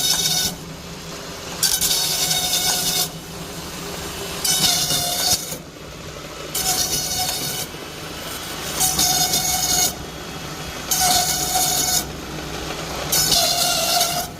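Satay-skewer machine with a single planer, its motor running steadily while bamboo strips are fed through and shaved. A hissing, whining cutting burst of about a second comes in regular cycles roughly every two seconds, seven passes in all.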